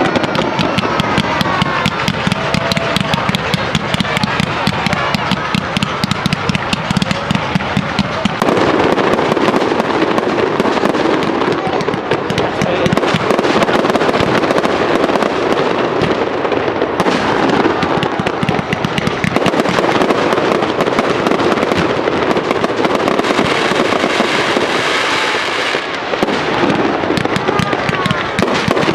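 Aerial fireworks display: a dense, unbroken run of bangs and crackling, with a few rising whistles near the start.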